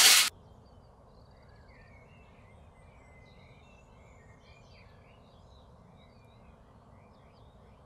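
Faint background hiss with faint, scattered bird chirps and twitters.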